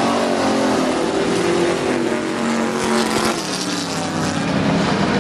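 A pack of IMCA stock cars and trucks racing, several V8 engines running hard together at full throttle, their pitches rising and falling as the cars pass, with one coming through louder about three seconds in.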